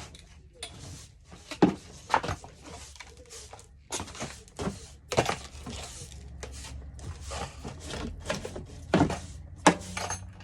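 Irregular knocks and thumps with short scuffing noises between them, as of objects being handled and set down, the loudest thump near the end.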